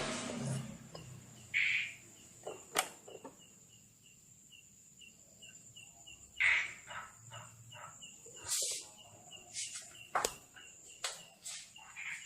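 Faint high chirps repeating evenly, about two to three a second, from a small creature in the background. Scattered clicks and taps of hand work on the scooter's plastic handlebar cover and its screws come through over them.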